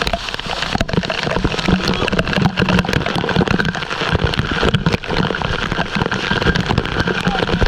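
Waterfall: water pouring down and splashing, a steady dense hiss thick with crackling drops.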